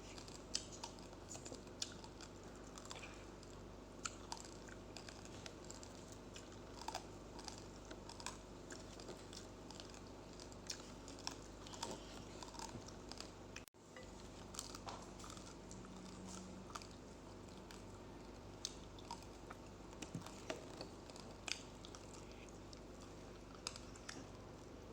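Close-up chewing of uncooked rice grains: many small, irregular crunches and clicks over a faint steady hum.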